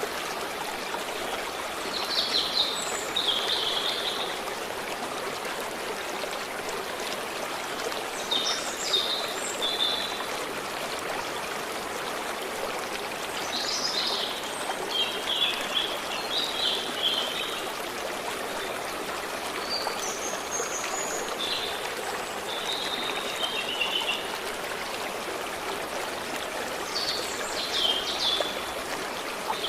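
A stream running steadily, with songbirds calling over it in short bursts of chirps and trills every few seconds.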